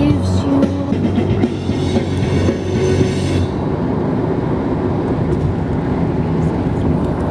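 Steady low rumbling noise of a moving vehicle, with a higher hiss that fades out about three and a half seconds in.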